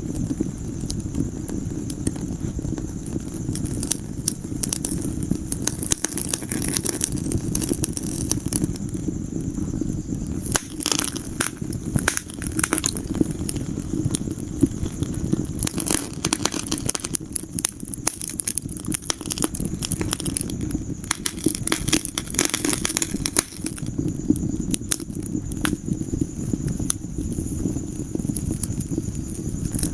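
Wood fire in a fireplace crackling: frequent sharp pops and snaps over a steady low rumble, with busier runs of pops about a third of the way in and again past the middle.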